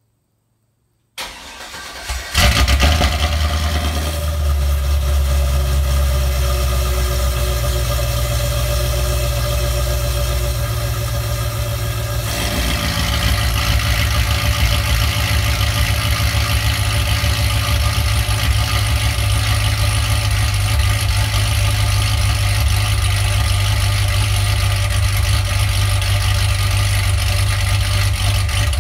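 Cold start of a 2005 Corvette's freshly rebuilt, untuned supercharged LS2 V8, heard at the quad exhaust tips: the starter cranks briefly and the engine catches about two seconds in, running at a fast cold idle. About twelve seconds in, the idle drops to a lower, more uneven beat.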